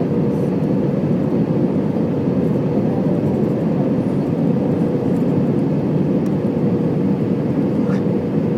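Steady roar of a jet airliner's engines and rushing air heard from inside the passenger cabin on approach, with a steady hum running through it.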